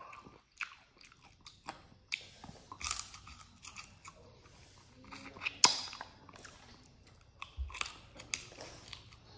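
Close-up chewing and crunching of cooked chicken feet: irregular sharp crunches and clicks of teeth on small bones and skin, the sharpest about halfway through.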